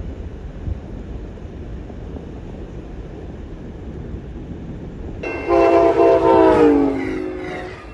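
Train horn sounding one long blast that starts suddenly about five seconds in: a chord of several tones that slides down in pitch and fades over about two seconds. Before it, a steady low rumble.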